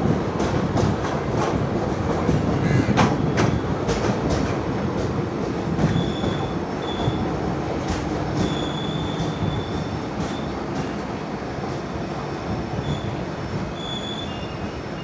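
Ananthapuri Express passenger train running on the rails: a steady rumble with sharp wheel clicks over rail joints in the first few seconds, then high wheel squeals at intervals from about six seconds in, the noise easing off toward the end.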